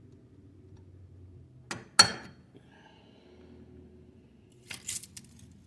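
Metal tools being handled: one sharp metallic clank with a brief ring about two seconds in, just after a lighter knock, and a few lighter clicks near the end.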